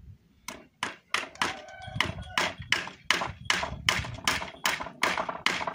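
Hammer driving nails into a wooden fence board: an even run of about seventeen blows, roughly three a second, some with a short ringing note from the nail.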